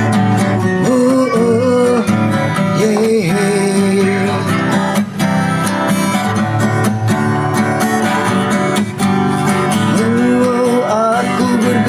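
Acoustic guitar strumming through an instrumental break between sung verses, with a wavering melody line above the chords.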